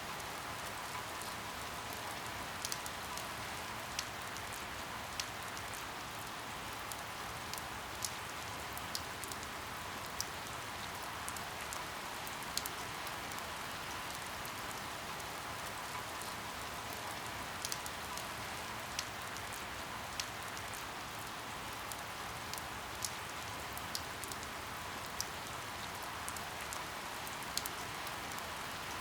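Steady rain falling, with scattered sharp drip taps about every second or two.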